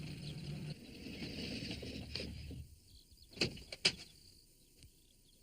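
A van's engine running with a low rumble, then dying away about two and a half seconds in as the van stops. Two short sharp clicks half a second apart follow.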